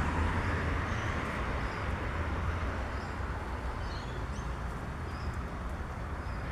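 Steady rumble of road traffic, easing a little as a vehicle passes by, with faint short bird chirps scattered over it.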